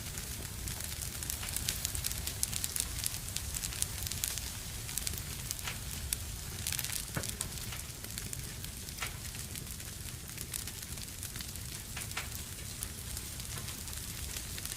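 Wood fire crackling in a fireplace: frequent sharp pops and snaps, busiest in the first half, over a steady low rumble of the flames.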